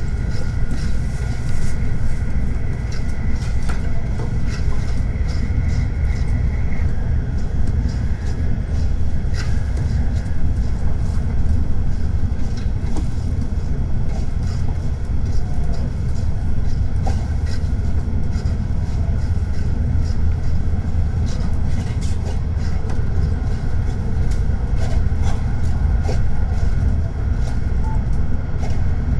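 Tokaido Shinkansen train running: a steady low rumble, with a faint high whine that fades out about seven seconds in.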